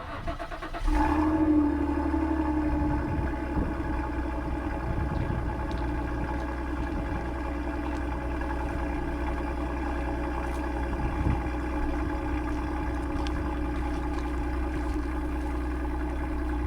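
2013 Lincoln MKS's 3.5-litre twin-turbo EcoBoost V6 cold-starting through catless downpipes into the stock exhaust. It catches about a second in, flares up briefly, then settles into a steady idle.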